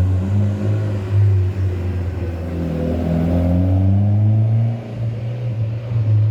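Rally car engine being revved, its pitch rising and falling.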